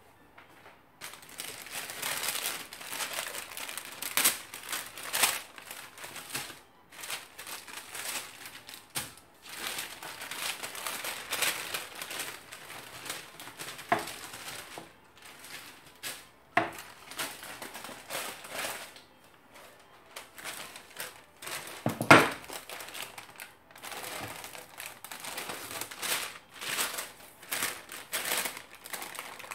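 Wax paper crinkling and rustling as it is handled and pulled at around an epoxied piece, with scattered small clicks and one sharper knock about two-thirds of the way through.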